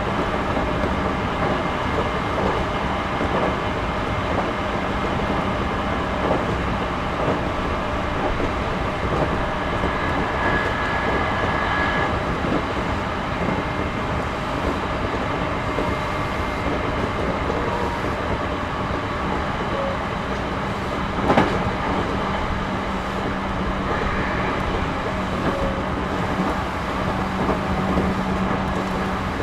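Running sound of a JR Series 211-5000 electric multiple unit, heard inside the passenger car: a steady rumble of wheels on rail with scattered clicks. There is one sharp knock about twenty-one seconds in.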